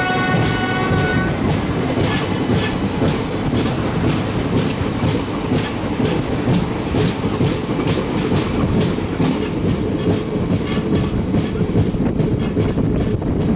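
Passenger train wheels rumbling and clattering over the rail joints as two trains pass on adjacent tracks, with rapid, uneven clicks throughout. A steady high tone stops about a second in.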